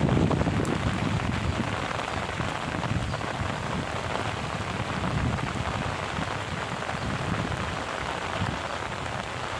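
Heavy rain falling on surfaces, a steady dense hiss, with wind buffeting the microphone in low gusts, strongest in the first second.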